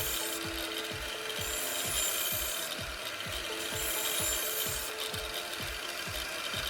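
Angle grinder fitted with an A120 flap disc grinding a new edge onto a steel kitchen knife: a steady hissing rasp of metal being removed. A regular low thump runs under it about twice a second.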